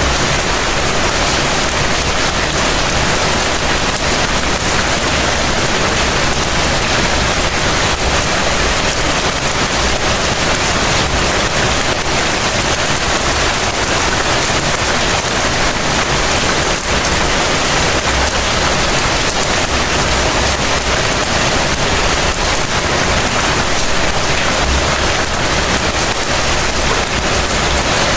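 Heavy rain falling steadily, a dense, even hiss of many drops with no letup.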